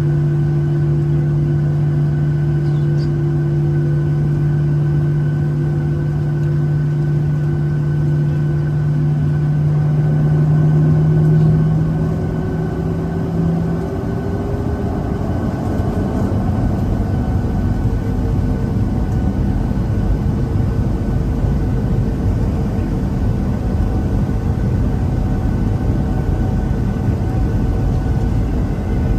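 Airliner jet engines with a steady hum and whine. About ten seconds in, a tone rises as the engines spool up to takeoff power, and a heavy rumble builds and carries on through the takeoff roll.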